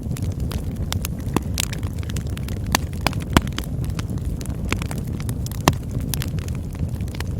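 Campfire burning: a steady low rumble of flames with irregular crackles and pops, a few sharper snaps standing out.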